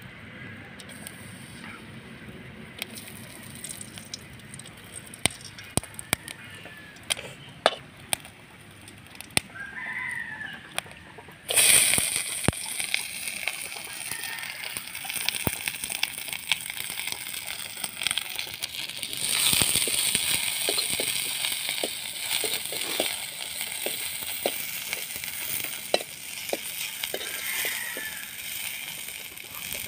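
Sliced onions go into hot oil in a metal wok about a third of the way in, setting off a sudden, loud, steady sizzle that continues while a ladle stirs and taps the pan. Before that there are only small scattered clicks, and chickens cluck now and then.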